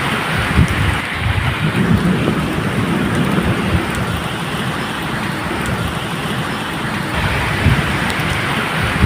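Medium rain falling steadily, with low rolling thunder rumbling underneath that swells about a second in and again near the end.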